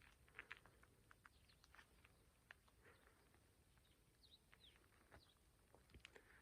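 Faint, scattered bird chirps and short calls, a few of them sliding down in pitch.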